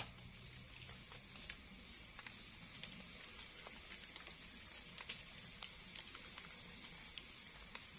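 Faint night-time forest ambience: a steady low hiss with a few soft, scattered ticks and no clear event.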